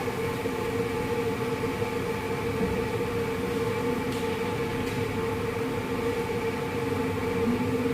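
Steady machine hum with a constant mid-pitched tone, running evenly throughout.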